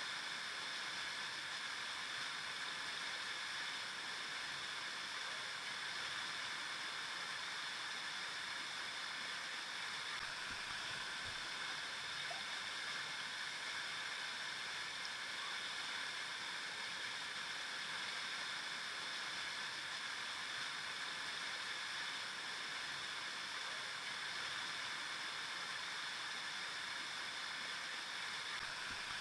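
River water flowing and splashing over rocks, a steady, even rush with no change.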